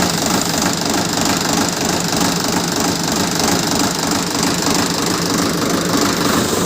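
Ace tractor's diesel engine running steadily with a fast, even knocking beat.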